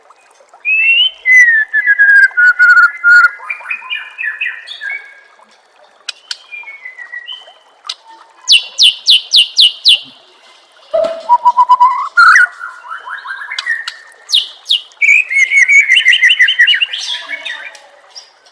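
White-rumped shama (murai batu) singing a varied song of clear whistled phrases, several sliding down in pitch, with a quick run of sharp repeated notes partway through and short pauses between phrases.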